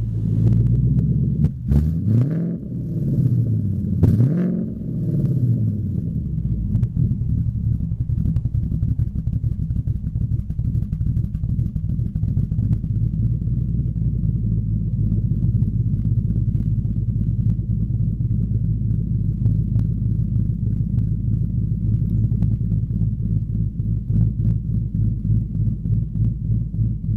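2013 Ford Mustang GT's 5.0 V8, running a Steeda ghost cam tune through a Pypes Bomb axle-back exhaust, just after starting: the engine speed rises and falls a few times in the first several seconds, then settles into a steady, loud idle with a choppy lope.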